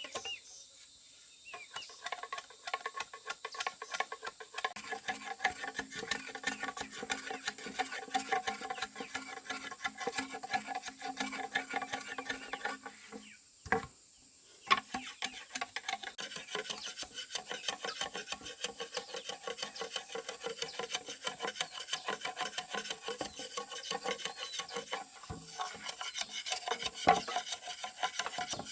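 Fast, repeated rasping strokes of a hand tool scraping or sawing wood. The strokes begin about a second and a half in and break off for about a second halfway through.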